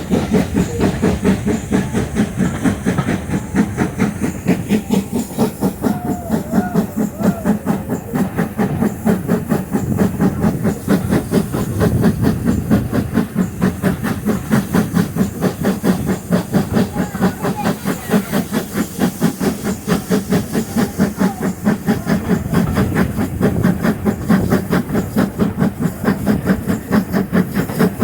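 Steam locomotive working hard up a steep gradient, its exhaust beating in a steady rhythm of about four beats a second.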